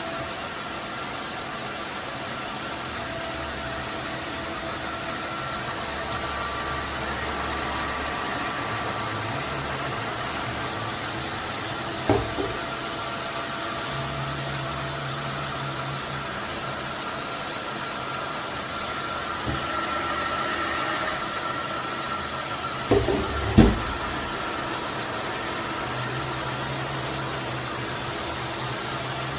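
Roborock F25 ACE cordless wet/dry vacuum mop running steadily, a whirring noise with a faint whine over a low hum that shifts now and then. One sharp knock comes about twelve seconds in, and a couple of louder knocks come about two-thirds of the way through.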